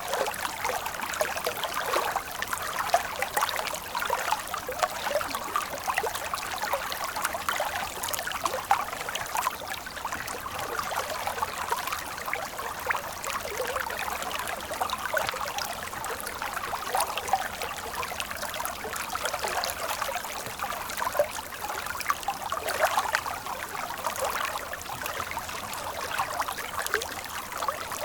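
Running water of a stream, a steady babbling trickle with many small splashes and no deep rumble.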